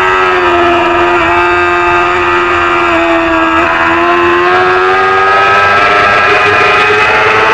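Supersport 300-class racing motorcycle engine held at high revs, its pitch climbing slowly with a few brief small dips, at about one second in and around three and a half seconds in.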